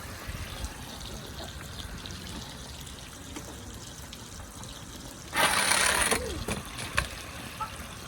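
Water trickling steadily, then about five seconds in a toy dump truck hits the pool with a short splash, followed by a single sharp knock.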